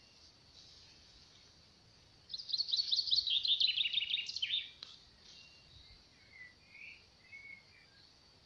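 A small songbird singing: one fast trill of rapid notes that falls in pitch over about two seconds, starting a couple of seconds in, followed by a few faint short chirps.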